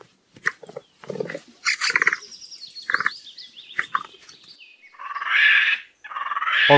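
Capybara calling in a quick series of short squeaks and clicks, with a few lower grunts, a run of high falling chirps about two seconds in, and a rougher, longer call near the end.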